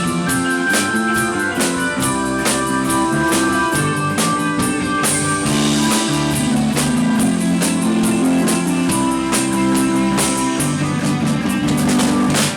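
Rock band playing live: an instrumental passage of guitar and bass over a steady drum-kit beat, with no singing. It breaks off suddenly at the very end.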